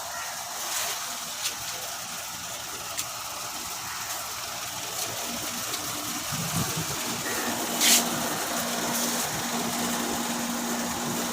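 Tractor engine idling: a steady hum that becomes clearer about halfway through, with one sharp click near the end.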